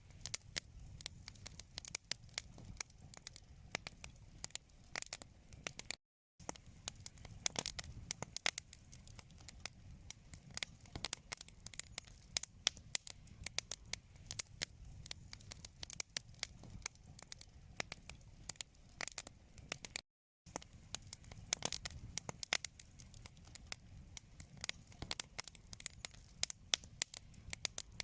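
Wood fire crackling in a fireplace: dense, irregular pops and snaps over a soft low rumble. The sound cuts out completely twice for a split second.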